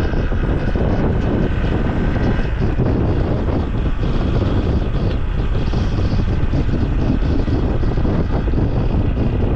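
Motorcycle on the move: its engine running steadily under loud wind rushing over the microphone.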